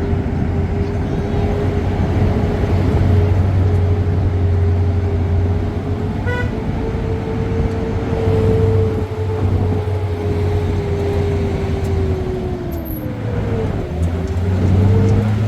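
Road vehicle engine running steadily over road noise. Its pitch drops near the end, then climbs again as it speeds up. A short horn toot sounds about six seconds in.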